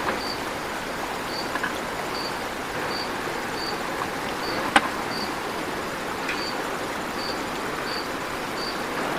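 Steady rush of a flowing river, with a high insect chirp repeating about every two-thirds of a second and one sharp click about halfway through.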